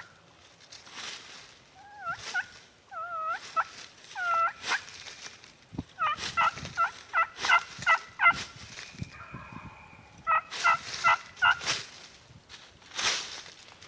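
Wild turkey gobbler gobbling twice, each gobble a rapid rattling run of notes, the first about six seconds in and the second about ten seconds in, after several single turkey yelps. Short noisy rustles come between the calls.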